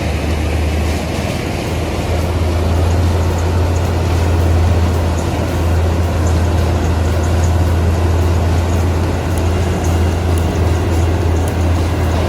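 Large diesel-powered industrial wood grinder running under load, a steady heavy drone mixed with the noise of material being ground.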